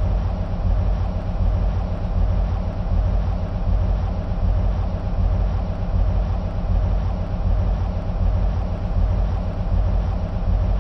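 EMD SW1500 switcher locomotives idling, their 12-cylinder two-stroke diesels running with a steady, deep sound that swells and dips evenly.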